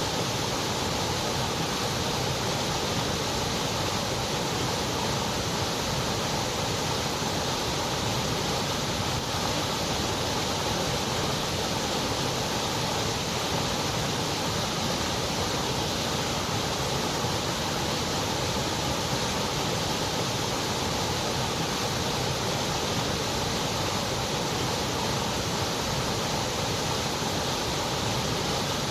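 Continuous white noise for sleep masking: a steady, even hiss that never changes.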